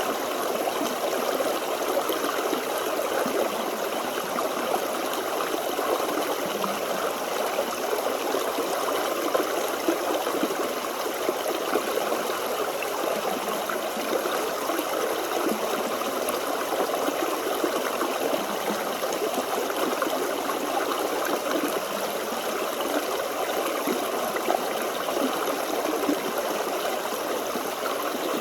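Forest stream flowing steadily over rocks, a continuous babble of running water with no changes or breaks.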